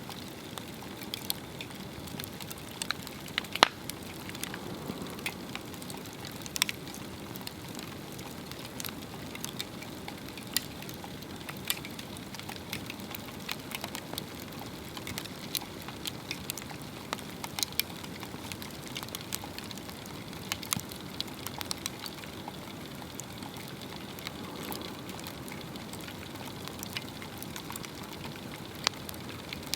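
Swedish torch log fire burning, crackling with frequent irregular sharp pops over a steady hiss of flames.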